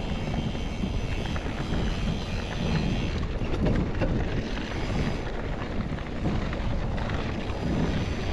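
Wind buffeting the microphone and mountain bike tyres rolling over desert dirt and rock: a steady, loud low rush, with clicks and rattles from the bike about three to four seconds in.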